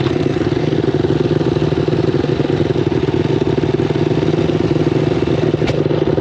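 Single-cylinder four-stroke off-road engine running at a steady, held speed, with one sharp click near the end.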